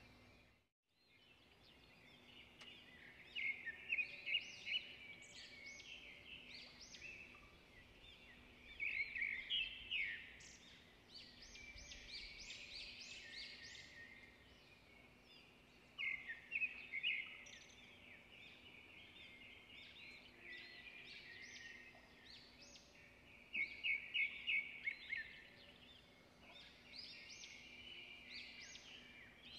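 Small birds chirping and twittering, with several bursts of quick, louder trilled notes, over a faint steady low hum.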